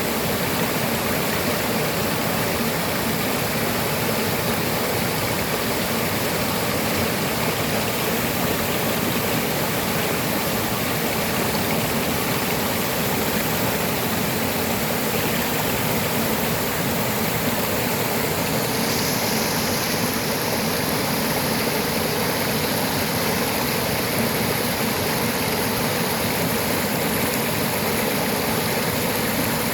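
Waterfall: steady rushing of falling water. The high hiss shifts slightly about two-thirds of the way in.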